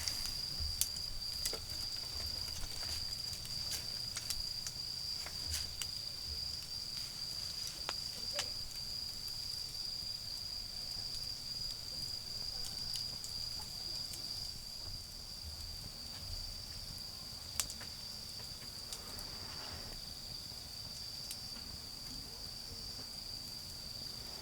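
Autumn insects singing a steady, unbroken high-pitched trill, while a wood fire crackles with scattered sharp pops, most of them in the first half and one loud pop about two-thirds through. A low rumble of distant traffic sits underneath.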